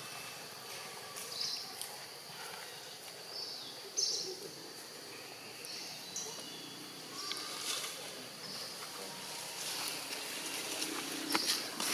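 Outdoor ambience with short, high-pitched bird chirps every couple of seconds over a steady background hiss, and a few sharp ticks near the end.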